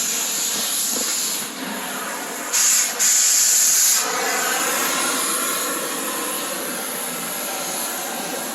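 Cutting torch hissing steadily while burning through the truck bed's mounting bolts. The hiss gets louder from about two and a half to four seconds in, with a short break in the middle.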